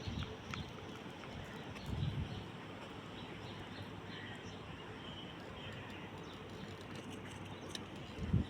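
Quiet outdoor garden ambience: a steady faint hiss with a few faint bird chirps, and a soft low thump about two seconds in.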